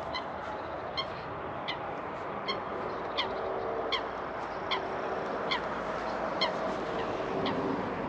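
A bird repeating a short, sharp call about once every three-quarters of a second, ten or so times, over steady outdoor background noise.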